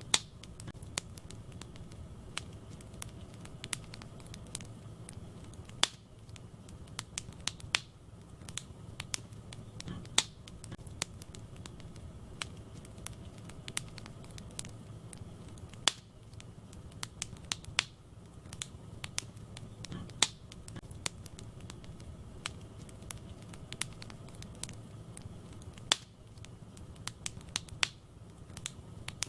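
Wood fire burning in a fireplace: a steady low rumble with scattered crackles and sharp pops, a louder pop every few seconds.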